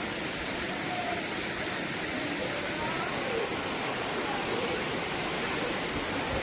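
Waterfall pouring steadily, a constant rushing roar of falling water.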